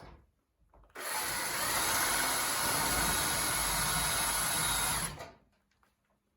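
A power drill runs steadily for about four seconds with a high whine, then stops and winds down. A click sounds just before it starts.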